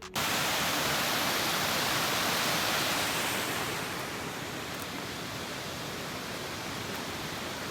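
Steady, even rushing noise with no tone or rhythm in it. It starts abruptly and eases a little about halfway through.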